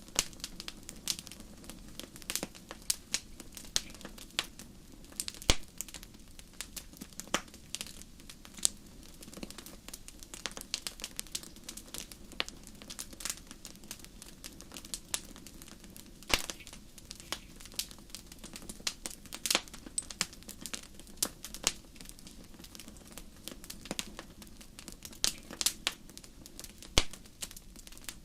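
Wood fire burning in a fireplace: logs crackling and popping in sharp, irregular snaps, several a second, over a steady low rumble of the flames.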